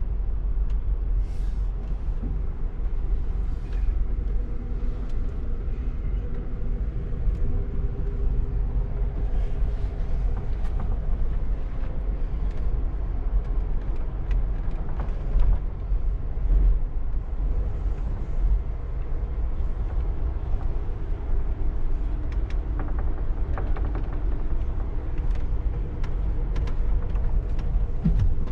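Amtrak passenger train running along the track, heard from inside the car: a steady low rumble with faint rattles and clicks.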